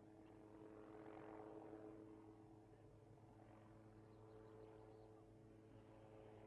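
Faint, steady drone of a helicopter, swelling briefly about a second in.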